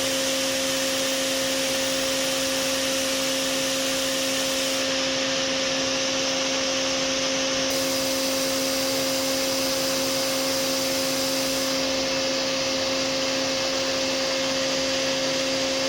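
Hwacheon SIRIUS-UL+ vertical machining center milling a mold or die part: a steady hiss with a clear, unchanging cutting tone and a fainter lower tone beneath it.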